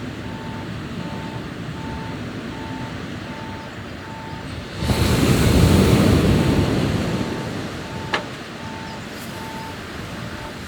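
Sea waves washing on the shore, with one wave breaking loudly about five seconds in and rushing for a couple of seconds before falling back. A short sharp click comes near the end.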